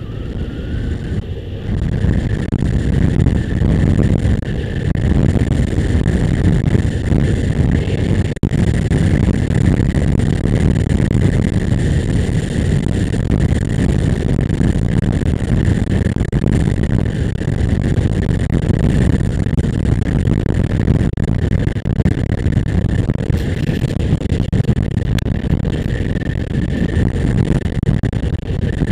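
A motorcycle riding along the road, a steady rushing rumble of engine and passing air that builds over the first couple of seconds and then holds.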